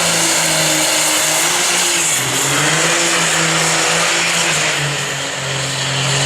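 Drag-racing truck's engines running, a loud steady rush with a low drone that wavers slightly in pitch and dips briefly about five seconds in.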